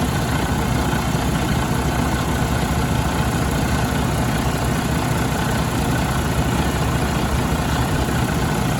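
Detroit DD15 inline-six diesel engine idling steadily, its rapid low firing pulses unchanging.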